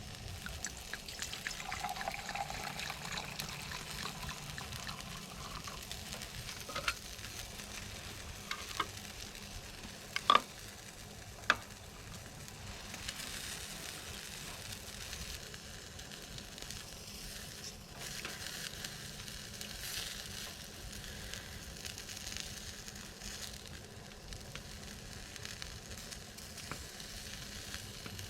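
Food sizzling steadily as it cooks, with a few sharp clicks, the loudest about ten seconds in.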